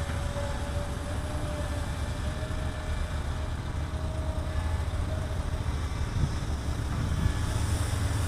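Sany long-boom excavator's diesel engine running steadily: a low rumble with a thin whine above it, growing a little louder near the end.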